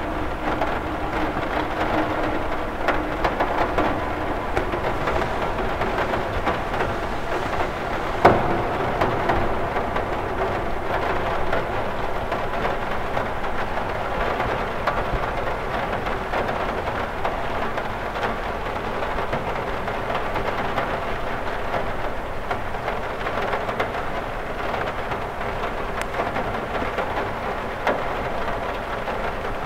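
Steady rain pattering on window glass, with one sharp tap about eight seconds in.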